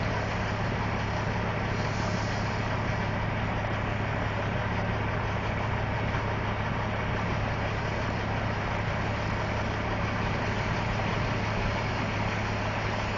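Semi-truck diesel engine idling steadily: a constant low hum that does not change in pitch or level.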